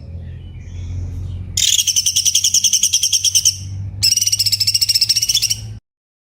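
Cucak cungkok singing its rapid trilled 'tembakan' phrases: two long trills of about two seconds each, after a few faint softer notes, over a low steady hum. The recording cuts off abruptly near the end.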